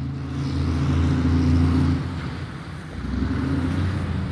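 Razor MX350 electric dirt bike's motor and chain drive running as it is ridden, a low steady hum that eases off about two seconds in and picks up again a second later.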